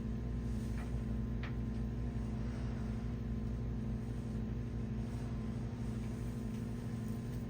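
A steady machine hum with a low drone, like a fan or motor running without a break, with a couple of faint clicks in the first two seconds.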